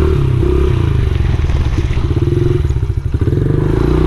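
Honda XR70R pit bike's small single-cylinder four-stroke engine running under throttle. Between about one and three seconds in, the note slows into separate choppy firing pulses and dips briefly, then picks back up: the bike is hard to keep running.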